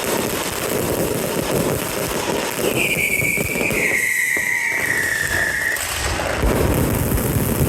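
Fireworks crackling densely and without a break. From about three seconds in, a high whistle sounds over the crackle for about three seconds, dropping a little in pitch.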